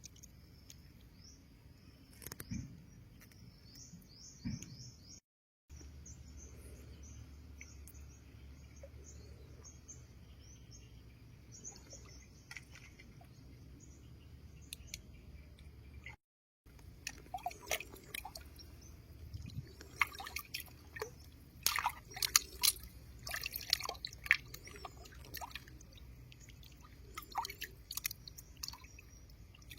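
Small birds chirping repeatedly in short high calls, then, through the second half, irregular water splashes and drips as something is worked in shallow water.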